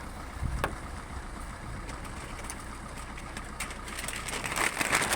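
Car engine idling, a steady low hum, with one sharp click under a second in and a hiss that builds louder near the end.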